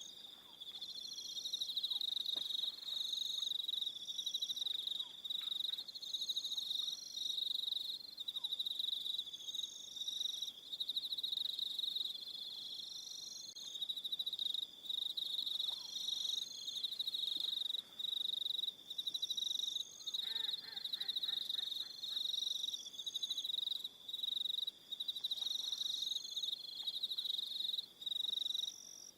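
Crickets chirping in fast pulsed trills, several insects at different pitches overlapping, with brief gaps. About twenty seconds in there is a faint short call at a lower pitch.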